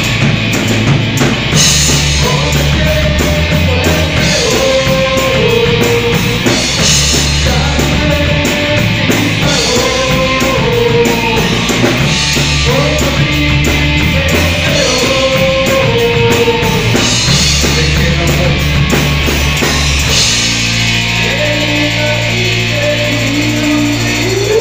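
Rock band playing live: heavy distorted guitars, bass and drum kit, with a melody line carried above them. About twenty seconds in, the drums drop out and the band holds steady notes.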